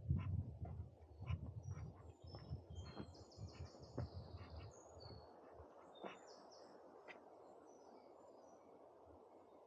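Forest ambience: small birds chirping in short high notes, densest in the first few seconds, over a steady background hiss. Irregular soft thumps and clicks mark the first half, then fade out.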